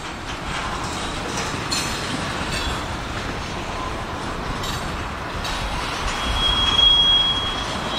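Union Pacific freight train's cars rolling past on the rails, a steady rumble of wheels with some clatter, and a brief high-pitched wheel squeal lasting about a second near the end.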